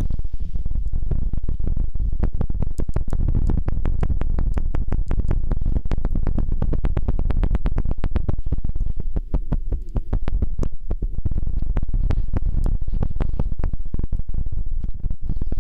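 Close-up ASMR rubbing and scratching on the microphone: dense, fast crackling over a heavy low rumble, with a brief dip in loudness a little past the middle.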